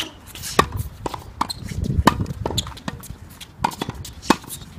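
Tennis balls being struck with rackets and bouncing on the court during play: a series of sharp pops at uneven intervals, some loud and close, others fainter.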